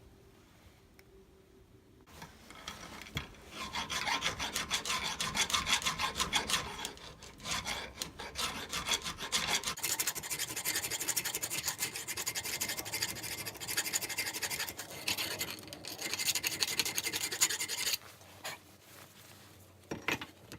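Electric welding arc crackling on the worn pivot joint of a Bobcat 316 mini excavator, in two long runs: from about two seconds in to about seven, then after a short break again to near the end, the second run brighter and hissier.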